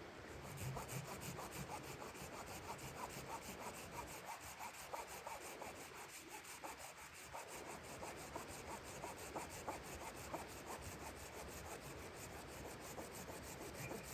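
Wood being sawn by hand, in quick, even strokes.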